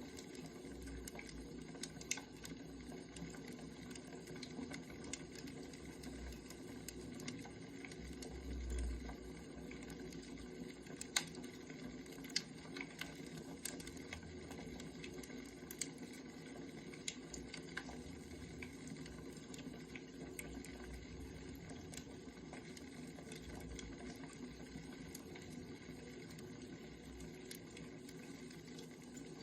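Wood fire crackling: scattered sharp pops and snaps over a steady low hiss, with a brief low rumble about nine seconds in.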